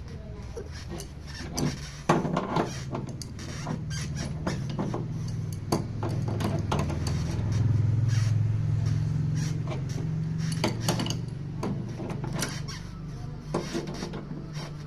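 Metal tools knocking and clinking in a series of short sharp impacts, over a steady low motor hum that swells around the middle.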